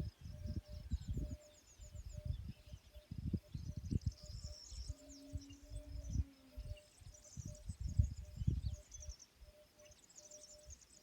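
Outdoor nature ambience: birds twittering in quick high chirps, with a short steady note repeating about twice a second, over irregular low rumbles.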